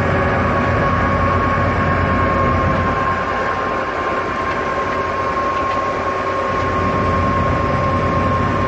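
Narrow-gauge tourist train running along the track, heard from an open passenger car: a steady rumble with a thin, steady high tone over it.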